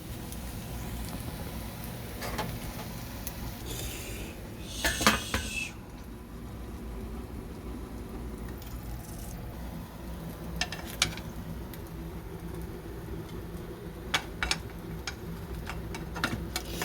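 Cutlery and dishes clinking and knocking now and then, with a dense cluster of clatter about five seconds in and single clicks later, over a steady low hum.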